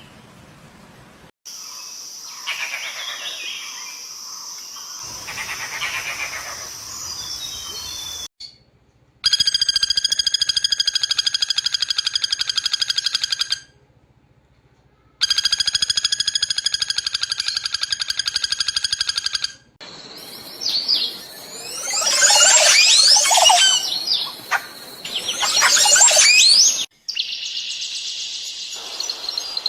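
Birds calling and singing in a series of short clips joined by abrupt cuts. The calls include a long, rapid, buzzing trill heard twice and, later, a burst of busy chirping and chattering.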